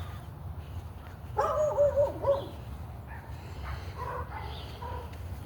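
Neighbourhood dogs barking: a group of barks a little over a second in, then fainter barks near the end, over a steady low rumble.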